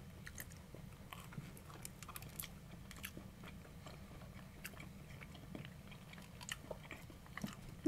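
Two people chewing pizza with their mouths closed: faint, scattered wet mouth clicks.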